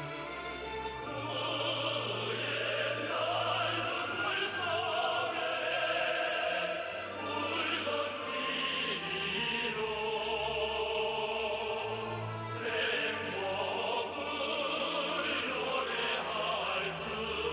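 Operatic singing over orchestral accompaniment, held notes sung in a bright, full voice.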